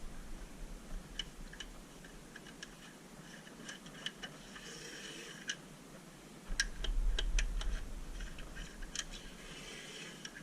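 Scattered light clicks and taps of hand work on a car in a workshop, with short hissing patches and a low rumble about six and a half seconds in.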